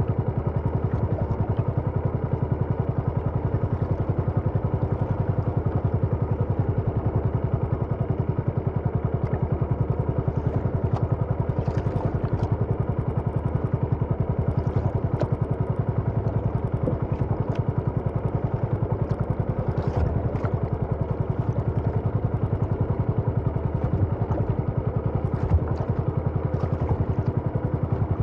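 A small engine running steadily at an even speed, with a rapid regular beat and a few light clicks and clatters over it.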